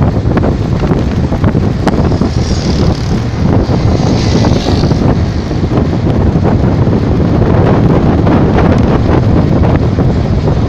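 Wind buffeting a phone microphone on a moving bicycle, with a dense clatter of small knocks and rattles from the bike and a loosened handlebar phone holder shaking over rough ground.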